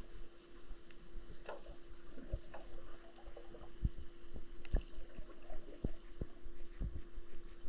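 Sound picked up by a submerged camera: a steady hum with irregular low thumps and knocks, a few a second, and a few faint clicks.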